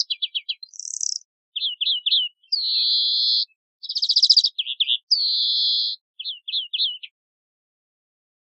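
Greenfinch singing: quick twittering trills alternating with two long, wheezing notes of about a second each.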